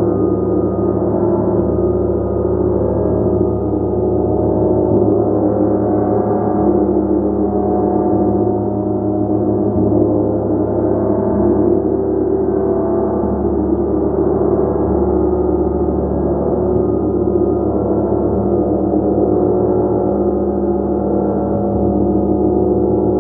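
Gong played continuously, a dense, sustained wash of many overlapping tones, mostly low and middle pitches, with steady loudness and no single strike standing out.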